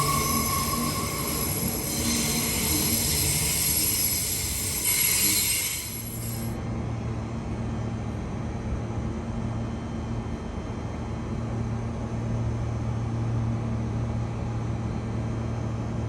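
Queensland Rail electric train heard from inside the carriage, with wheel squeal and high-pitched running noise as it slows into a station. About six seconds in the noise drops away to a steady low hum as the train stands at the platform.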